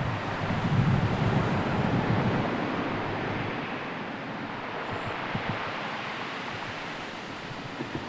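Sea surf washing in under a strong wind, with gusts buffeting the microphone. The rush swells over the first two seconds, then slowly eases off.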